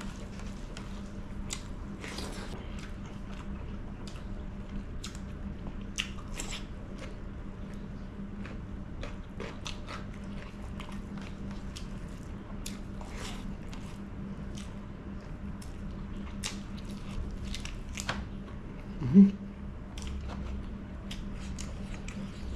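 Eating sounds of chicken curry with bamboo shoot eaten by hand: wet chewing, mouth clicks and fingers working the food, scattered short clicks over a steady low hum. About nineteen seconds in comes one short, loud throat sound that rises and falls in pitch.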